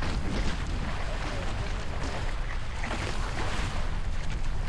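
Wind buffeting the microphone aboard a Hobie 16 catamaran under sail, over the rush and splash of water along the hulls, which swells a few times.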